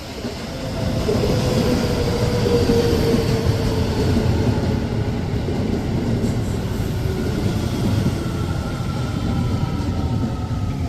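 Keio Line electric train running, heard from aboard: a loud steady rumble with several whining tones that slowly fall in pitch.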